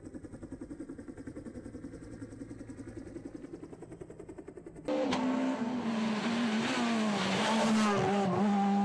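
Rally car engine heard from the cockpit. First a quieter, rapidly pulsing low engine sound, then after a sudden cut about five seconds in, the engine running loud at high, fairly steady revs with small dips in pitch.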